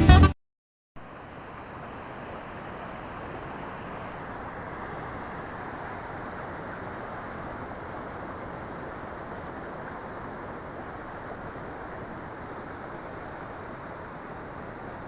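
Steady rush of falling water from a waterfall, an even noise with no breaks. It begins about a second in, just after the last of a guitar tune cuts off.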